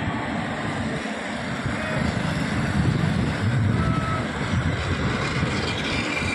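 Trains rolling slowly past on the rails, led by a WAP-4 electric locomotive: a steady low rumble of wheels on track that swells about three to four seconds in.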